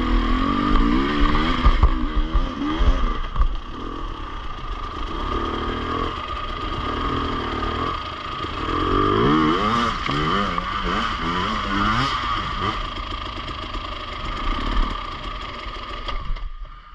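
Enduro motorcycle engine being ridden, its revs rising and falling again and again. It drops away just before the end.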